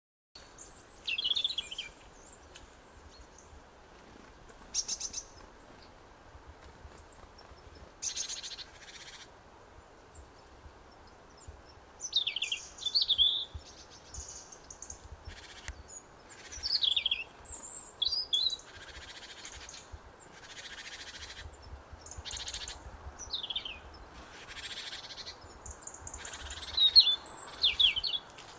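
Small birds calling: scattered short, high chirps and quick falling calls, coming every second or two and sometimes overlapping.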